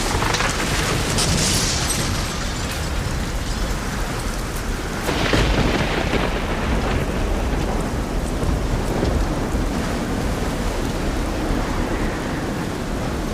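Steady heavy rain falling as a dense hiss over a deep low rumble, swelling louder about a second in and again about five seconds in.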